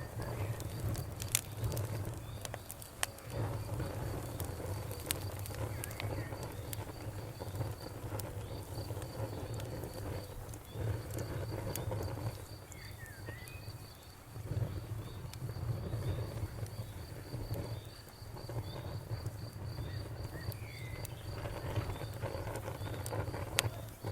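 Bonfire crackling, with scattered sharp pops over a low rumble that swells and dips, while a cricket chirps in a steady, rapid, even pulse.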